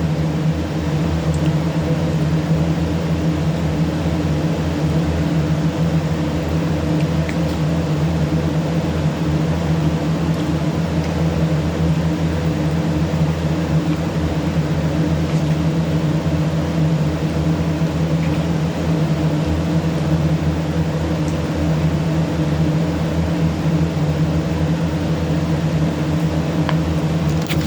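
Steady low mechanical hum from a running motor, unchanging in pitch and level.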